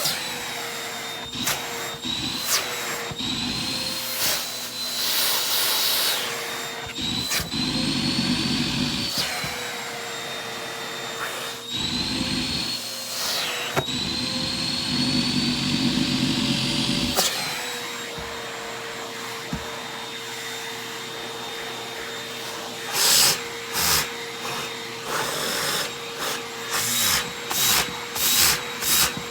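Vacuum cleaner running, its motor whine wavering in pitch, with louder surges of rushing, rattling noise as mixed debris is sucked up. In the last few seconds the sound comes in a run of short, quick bursts.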